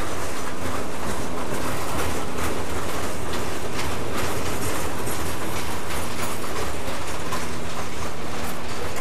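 Freight train cars (tank cars, boxcars and covered hoppers) rolling past close by, their wheels clicking over the rail joints in a continuous clatter, with a low steady hum underneath.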